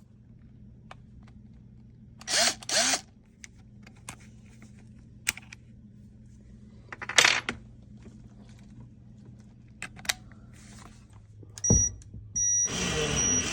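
Clunks, clicks and short scrapes as a clothes dryer is pulled out from the wall, over a steady low hum. Near the end there is a thump, then a louder, steady, hissing noise with a thin high tone starts.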